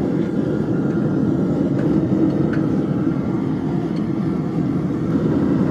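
A blacksmith's forge running with a steady, low rushing noise and no hammer blows.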